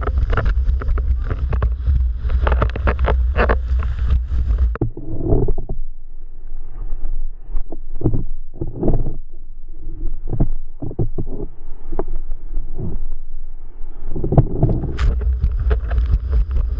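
Wind buffeting the microphone with heavy rumble, mixed with water slapping and splashing against a planing windsurf board. About five seconds in the wind rumble drops away and the sound turns duller, with separate splashes, then the full rush of wind and water returns near the end.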